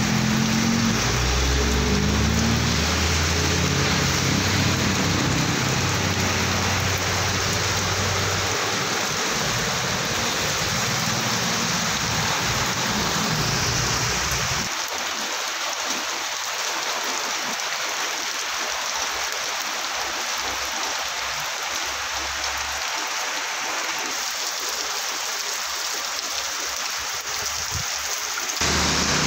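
Heavy rain pouring steadily, with the low rumble of trucks and cars passing on the wet road for roughly the first half. About halfway through the rumble drops away and only the rain is left.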